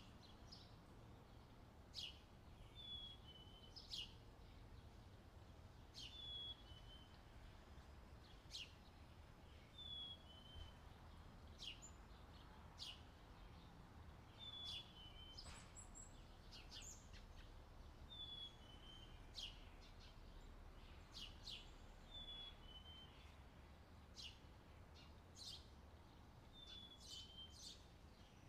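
Faint small-bird chirping: a short high call repeated every second or two, with quick sharp chirps in between, over a low steady hum.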